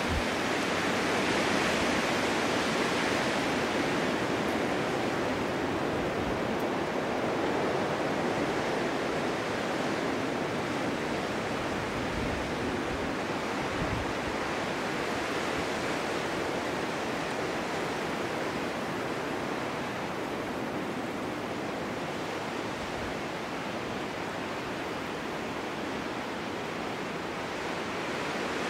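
Steady wind rushing through a snowy forest in a snowstorm, swelling slightly at the start and easing a little later on.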